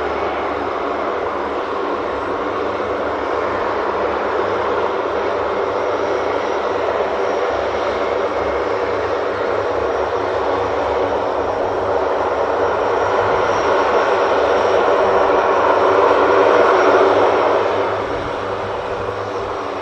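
Military transport aircraft engines running. The sound grows steadily louder, peaks near the end, then drops off quickly.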